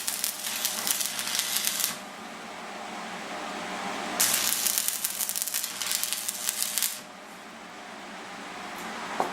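Stick-welding arc burning a 6013 electrode, a dense crackling sizzle that runs for about two seconds, stops, then strikes again for about three seconds, with a steady hum in the gaps and a short click near the end.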